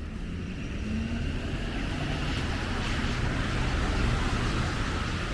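A car passing on a snowy downtown street: a low traffic rumble with tyre hiss that swells to its loudest about three to four seconds in.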